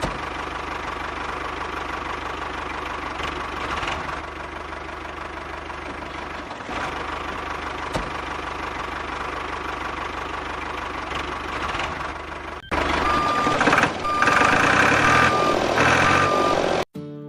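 A machine running steadily with a low hum and a faint steady whine. About two-thirds of the way in, it cuts abruptly to a louder passage with short, repeated high beeps.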